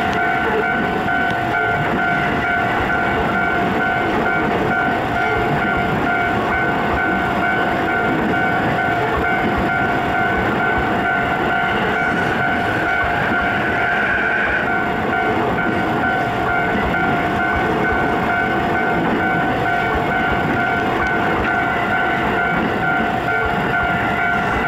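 E233 series 6000-subseries electric train passing over a level crossing, its wheels rolling on the rails. Over it, the crossing's warning bell rings steadily in two tones.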